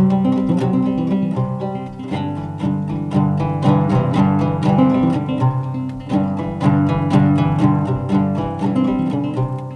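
Acoustic guitar music, plucked and strummed notes in a steady flowing rhythm.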